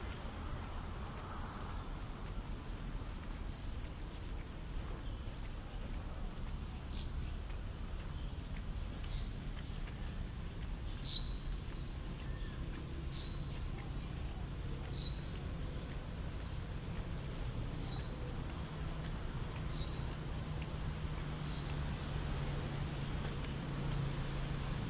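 Insects, such as crickets, trilling steadily at several high pitches over a low steady rumble, with short high chirps about every two seconds through the middle.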